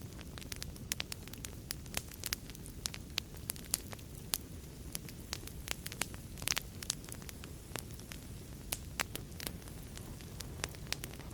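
Wood fire crackling in a fireplace: irregular sharp pops and snaps over a steady low rumble of the flames, with a quick cluster of pops about six and a half seconds in.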